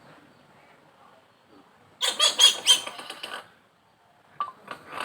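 Mentawai hill myna calling: a loud burst of several sharp, ringing calls about two seconds in, then a few short clicks near the end.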